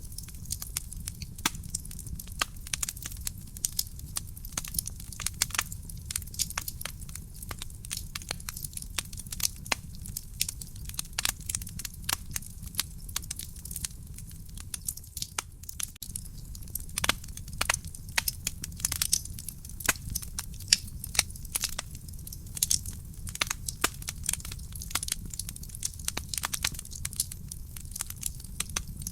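Wood fire burning in a fireplace, with dense irregular crackles and sharp pops over a low steady rumble of the flames.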